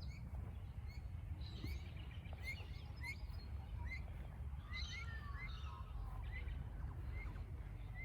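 Several birds calling: one repeats a short rising chirp about twice a second, while others add higher calls, busiest around the middle, over a steady low rumble.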